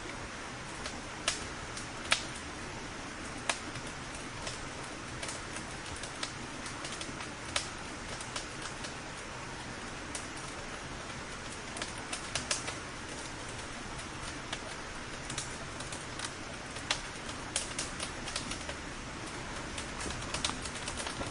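Wood bonfire crackling: a steady hiss with sharp pops and snaps at irregular intervals, the loudest about two seconds in.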